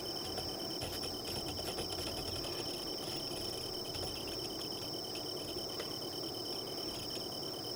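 Crickets chirping steadily: one continuous high trill over a second, rapidly pulsing chirp, with a few faint clicks.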